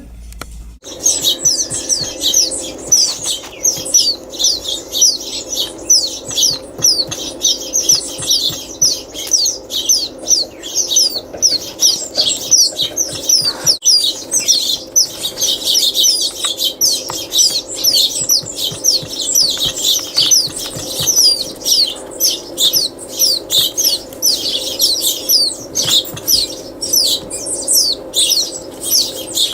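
Dense, rapid chirping of many small birds: sharp, high, downward-sliding chirps several a second, without a break, over a steady low hum.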